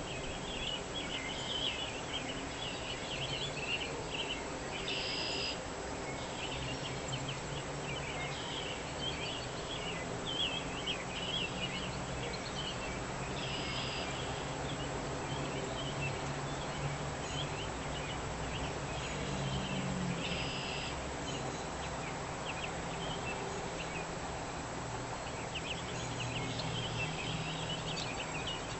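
Songbirds chirping in a dawn chorus: many quick overlapping chirps, with a few short buzzy trills, over a steady background hiss and a faint low hum.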